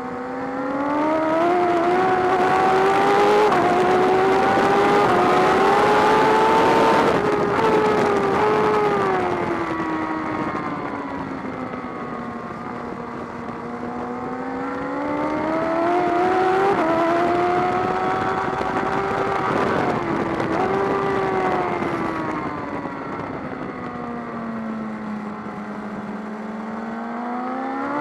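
BMW S1000RR inline-four engine heard from onboard at racing speed: it revs up hard with small steps in pitch at the gear changes, falls away as the bike slows, and climbs again. The cycle of hard acceleration and slowing happens twice, with a third climb starting near the end.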